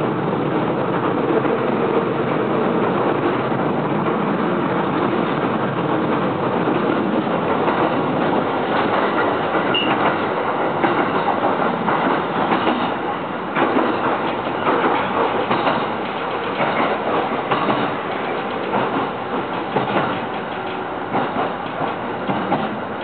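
Electric commuter train heard from inside the car while running: a steady rumble of wheels on rail, with irregular clacks over rail joints. The running noise eases off near the end as the train slows for a station.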